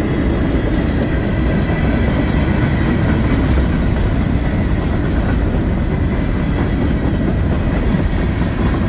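Freight cars of a CSX mixed freight train rolling past close by: a steady, loud rumble and rattle of wheels on rail.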